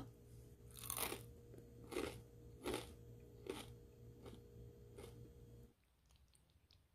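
Close-up chewing of crisp-crusted grilled banana bread: a crunch about once a second, six in all, over a faint steady hum. It cuts off abruptly near the end to near silence, with a few faint tiny pops from bubbling, fermenting shindari barley mash.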